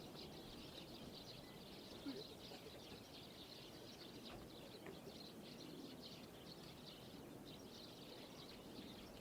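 Quiet outdoor ambience with faint bird chirping and faint distant voices; no aircraft engine is heard.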